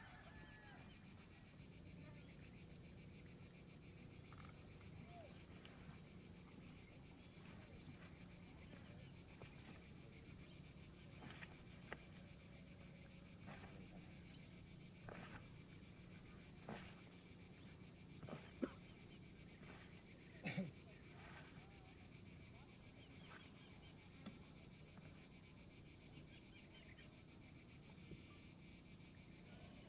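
Faint, steady high buzzing of an insect chorus, like crickets or cicadas, with a few scattered soft clicks and rustles, the loudest about two-thirds of the way in.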